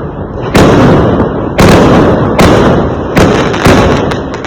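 Fireworks exploding: five loud bangs in quick, uneven succession, each hitting sharply and trailing off in a fading rumble.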